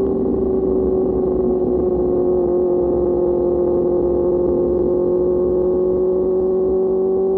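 QJ Motor SRK600 inline-four running through an SC-Project exhaust at steady revs while riding, a held engine note whose pitch sags slightly and then climbs again near the end, over wind and road noise.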